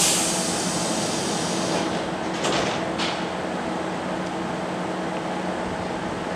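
Kintetsu electric train at a station platform: a sudden hiss that fades over about two seconds, then two short hisses close together about halfway, over a steady low hum.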